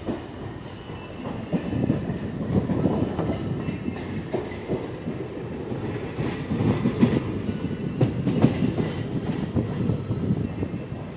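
Moving train heard from its open doorway: a steady rumble of wheels on the track with irregular clattering knocks, growing louder partway through.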